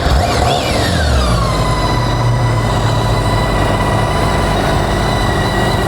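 BMW K1600GTL's liquid-cooled inline six-cylinder engine just after starting: its speed drops over the first second or so, then it settles into a smooth, steady idle.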